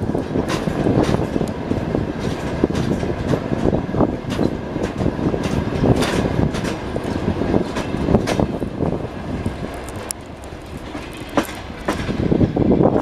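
Passenger train carriage running on rails, heard from inside the carriage: a steady rumble with the irregular clatter of wheels knocking over rail joints. It goes a little quieter about ten seconds in, then picks up again.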